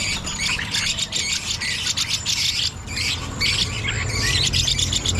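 Many caged songbirds chirping and squawking at once, a dense chorus of quick overlapping calls, over a low steady hum.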